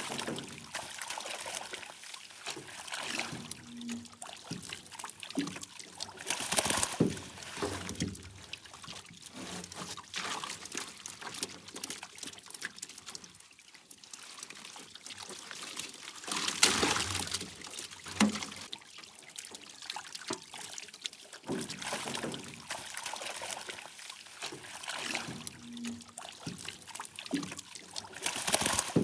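Water splashing and trickling in uneven surges, louder about seven, seventeen and twenty-eight seconds in.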